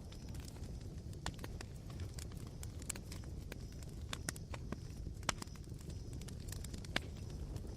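Campfire crackling: irregular sharp pops and snaps from the burning wood and embers over a low steady rumble, with a louder pop about five seconds in and another near the end.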